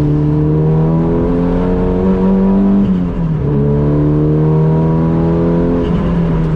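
Renault Megane RS 2.0 turbo four-cylinder engine in a Clio track car pulling hard under acceleration, its pitch climbing steadily, dropping sharply at an upshift about three seconds in, then climbing again before dropping once more near the end.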